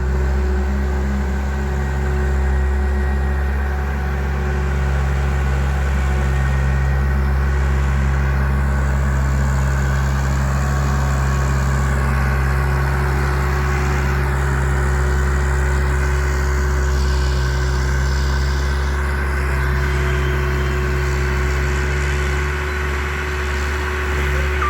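Bobcat machine's engine running steadily at work, a continuous low drone with slight rises and falls in level.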